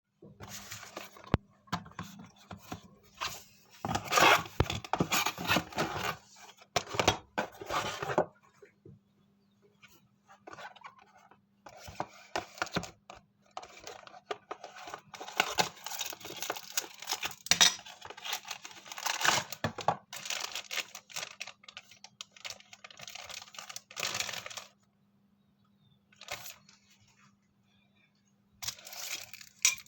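Packaging being torn and handled open: bursts of tearing and plastic crinkling with sharp clicks and small knocks, broken by a couple of quieter pauses.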